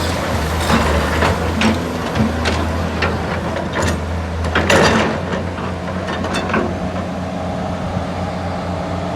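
Excavator engine running steadily under a low hum, with a series of knocks and clanks over the first six seconds or so, the loudest about five seconds in.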